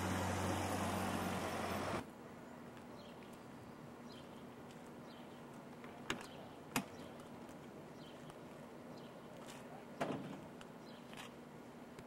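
A motor vehicle's engine running, its low hum stepping down in pitch, stops suddenly after about two seconds. Quiet street background follows, with a few sharp knocks: two close together about six seconds in and a louder one near ten seconds.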